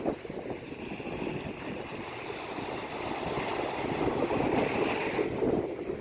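Sea waves washing in: a steady rush of surf that swells over a few seconds, then drops away shortly before the end.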